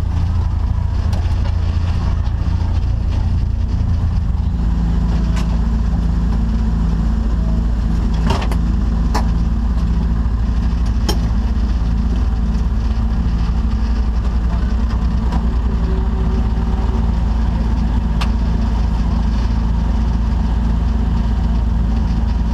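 Rover 45 banger's engine idling steadily, heard from inside its stripped-out cabin, with a few sharp knocks about eight, nine and eleven seconds in.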